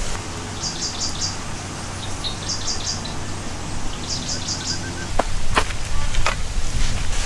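A bird calling in three short bursts of about four quick high chirps each, then a few sharp knocks near the end, over steady low background noise.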